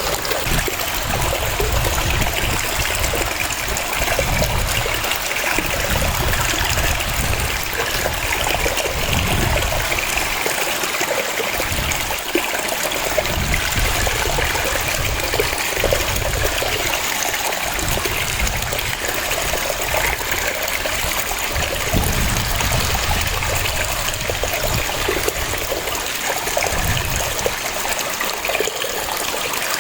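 Waterfall: a steady rush of falling water, with a deep rumble underneath that swells and fades unevenly.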